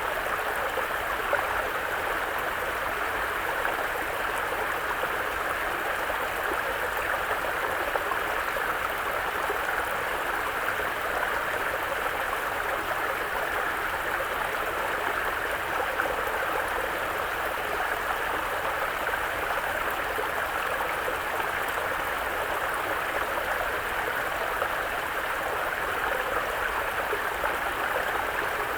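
Mountain brook flowing: a steady, unbroken rush of running water.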